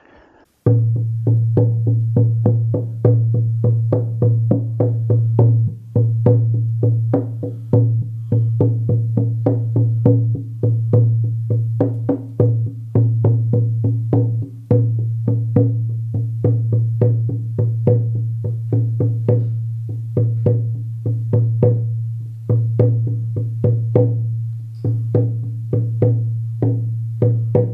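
A 14-inch horse skin shamanic frame drum on a beech frame, beaten steadily with a firm beater at about three beats a second. The beats begin just under a second in, and a deep ringing tone carries on between them.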